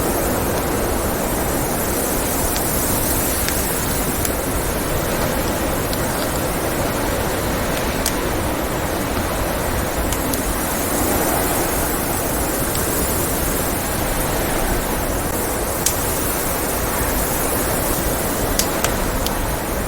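Blizzard wind: a steady rushing noise. Over it, a log fire crackles with occasional sharp pops, several in quick succession near the end.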